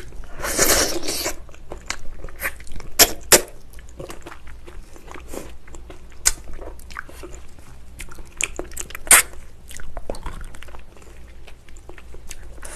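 Close-up mouth sounds of eating spicy braised ox foot: chewing and lip smacks, with a longer, louder bite about half a second in and a few sharp mouth clicks spread through.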